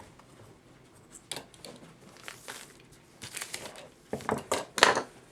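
A clock mainspring being slipped off the C-clamp that holds it coiled, with irregular rustling and scraping of metal in the hands, busiest and loudest near the end.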